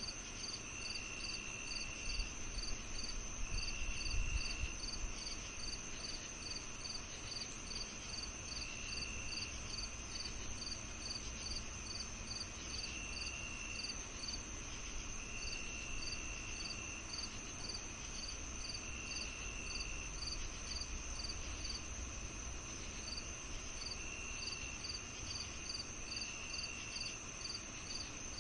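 Night insects of a summer evening: crickets chirping about twice a second over a steady high insect drone, with a lower trill coming and going every few seconds. A brief low rumble about four seconds in.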